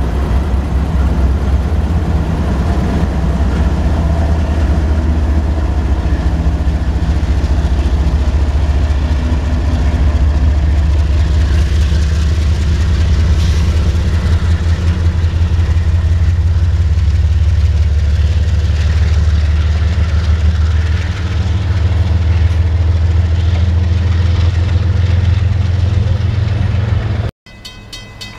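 A CSX freight train passing close by: its diesel locomotive engines run loud with a deep steady drone, and the freight cars roll past. Near the end the sound cuts off abruptly to a quieter grade-crossing bell ringing at a steady rhythm.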